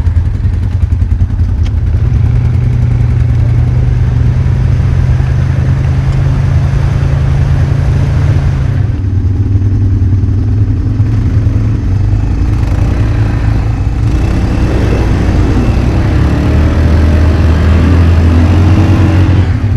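ATV engine running under throttle as it is driven into a deep mud hole, the pitch steady at first, then dropping, then revving higher and wavering near the end, when it is loudest.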